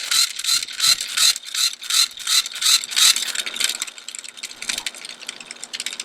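Small geared mechanism clicking and rattling in an even rhythm, about three clicks a second, over a faint steady hum; it stops near the end.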